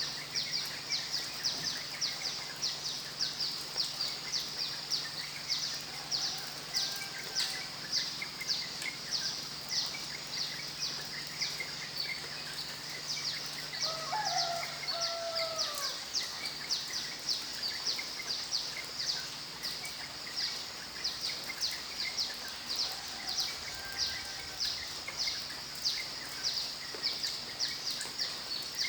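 Insects chirping high-pitched in a steady rhythm, about two pulses a second, over a soft steady hiss. About halfway through, a single drawn-out bird call rises and then falls.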